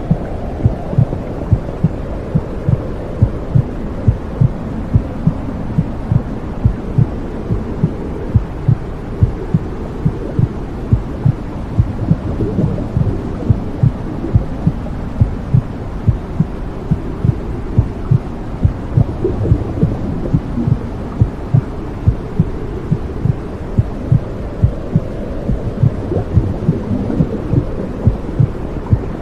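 Womb sound: a steady heartbeat, about two thumps a second, over a continuous low whooshing hum.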